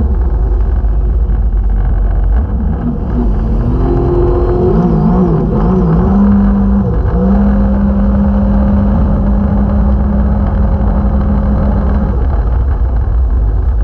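Jet ski engine running under way. Its pitch wavers up and down for a few seconds, then holds steady.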